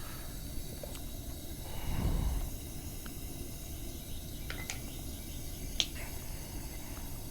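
Propane melting furnace burner running with a steady rushing hiss, with a brief low swell about two seconds in and a few light clicks between about four and six seconds in.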